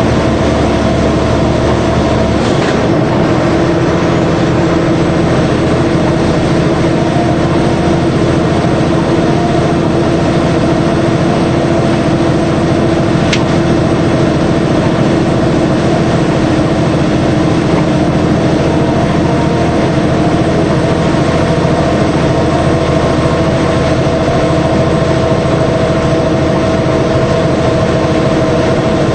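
DAF 75 truck's diesel engine running steadily, its note shifting once about two and a half seconds in.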